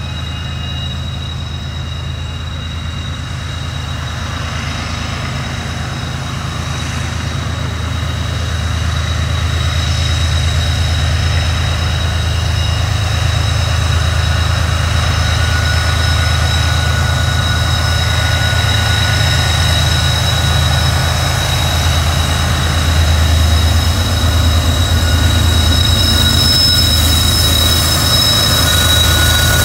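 Diesel freight locomotives pulling hard up a mountain grade: a steady low engine rumble that grows louder as they approach, with steady high-pitched wheel squeal from the curve.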